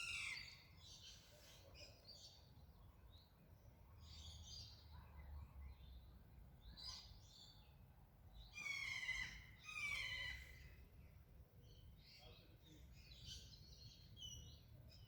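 Songbirds chirping and calling, faint, with louder calls at the start and about nine and ten seconds in.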